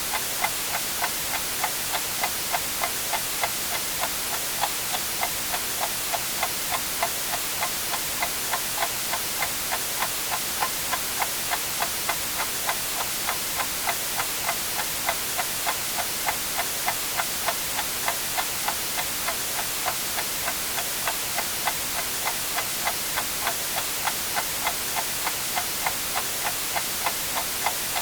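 A clock ticking steadily about twice a second over a constant hiss of white noise.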